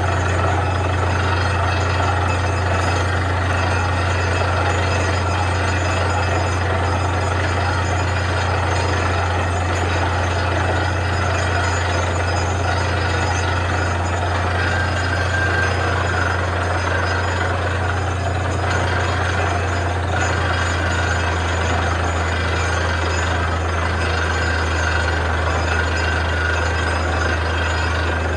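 Truck-mounted borewell drilling rig running steadily, a continuous machine sound with a strong low drone.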